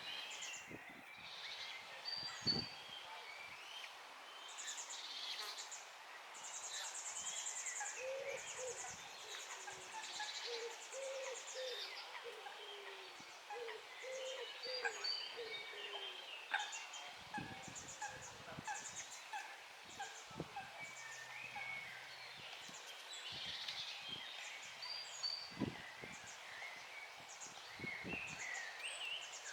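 Several birds calling and singing over each other, with many short high chirps and buzzy trills. About a third of the way in comes a run of low, repeated cooing notes lasting several seconds.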